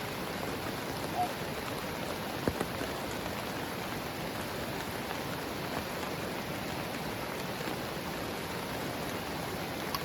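Heavy rain falling steadily on a tent, with a few single drops striking sharply, the clearest about two and a half seconds in.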